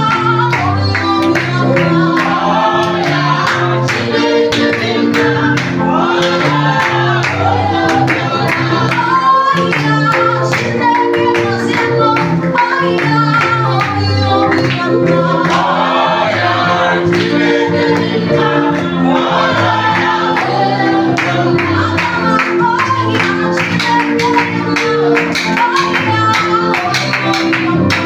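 Gospel praise-and-worship music: a group of singers over a backing band with a stepping bass line and a steady beat.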